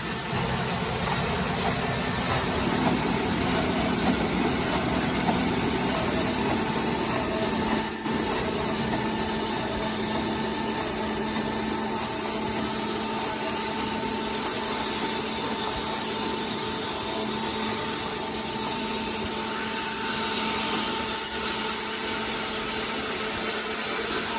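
Automatic neck paper roll rewinding machine running steadily at production speed, an even mechanical whir with a faint steady tone over it.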